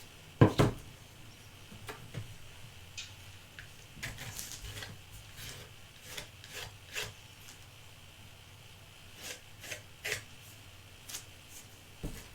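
Small objects being handled by hand: scattered taps, clicks and rubbing scrapes, with a louder knock about half a second in.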